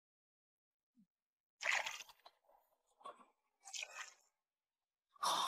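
Four short noisy crunches, roughly a second or so apart, with silence between them.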